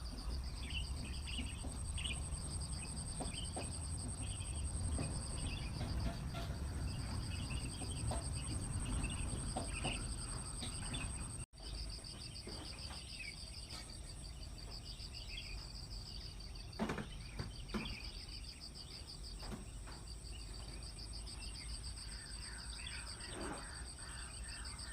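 Outdoor ambience of insects trilling steadily, a fast pulsing buzz with a higher continuous whine, while birds chirp in short scattered calls over a low rumble. The sound cuts out for an instant about halfway through, and a few knocks come a few seconds later.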